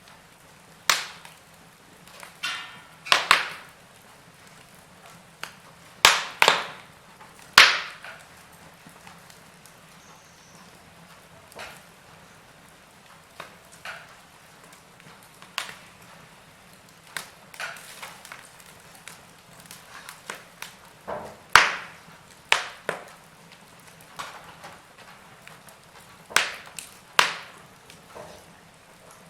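Log fire crackling: irregular sharp pops and snaps from the burning wood, some much louder than others, over a faint steady background.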